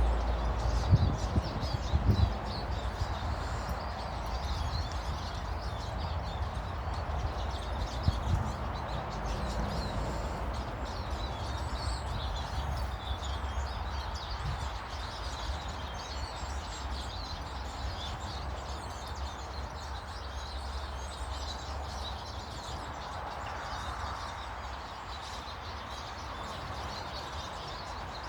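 Small birds chirping and calling over a steady low rumble of background noise, with a few brief low knocks in the first couple of seconds.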